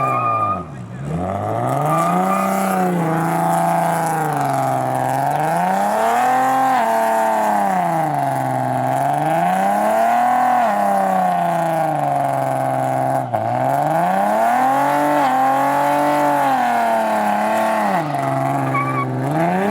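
Drag car's engine, fitted with custom headers, being revved again and again at a standstill, its pitch climbing and falling about every two seconds.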